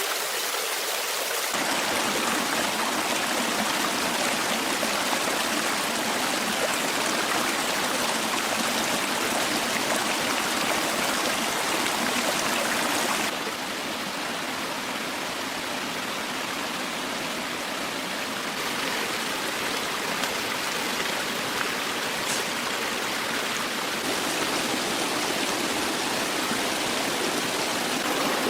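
Flowing stream water rushing steadily, its tone shifting abruptly a few times.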